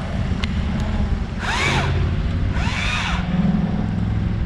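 Battery-powered Stihl MSA 161 T top-handle chainsaw revved twice briefly, each rev a whine that rises and falls, over an engine running steadily.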